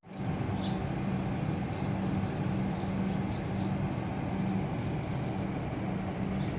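Steady low hum and rumble, as of an idling train, with short high chirps repeating a few times a second.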